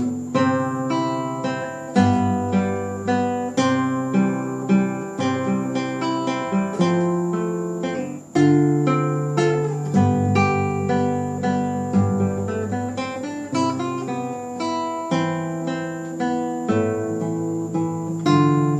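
Classical guitar played fingerstyle: single plucked melody notes over held bass notes, in a steady flowing passage.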